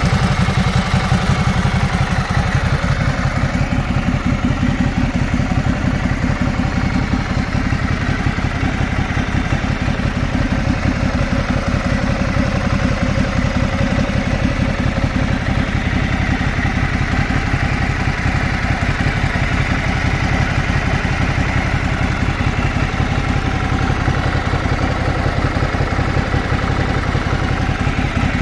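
Motorcycle engine idling steadily, its firing pulses even and unchanging.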